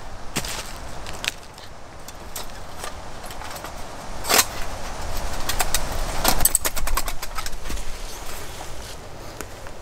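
Dry wood being broken for firewood: sharp snapping cracks. There is one loud crack about four and a half seconds in, then a quick run of smaller cracks a couple of seconds later.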